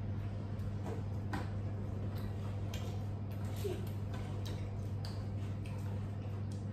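Eating sounds: people chewing pizza, with scattered small clicks and smacks at irregular intervals over a steady low hum.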